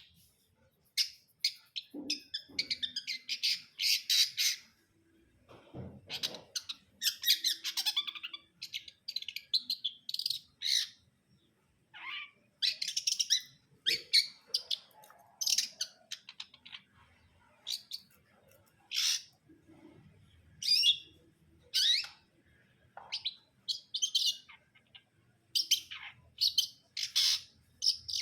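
Long-tailed shrike (cendet) singing in rapid runs of sharp, harsh notes with short gaps, some notes sliding down in pitch.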